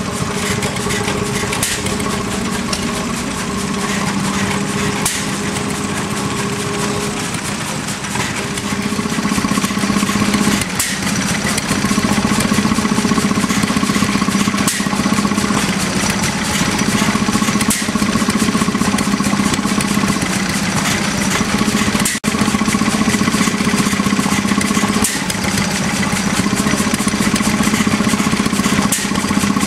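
Small vintage stationary engines running steadily, a continuous mechanical hum with changing tones as different engines come to the fore; it grows somewhat louder about nine seconds in.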